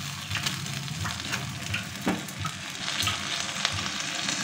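Thick cashew-and-yoghurt masala paste sizzling in oil in a non-stick pan on a low flame. A silicone spatula stirs and scrapes through it, giving scattered light scraping ticks over the steady sizzle.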